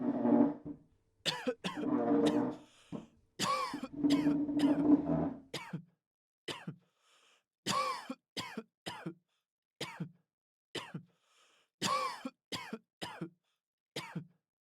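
Repeated human coughing and throat clearing, as from other people in a test room: a few longer, rougher coughing fits in the first six seconds, then a string of short single coughs at irregular intervals.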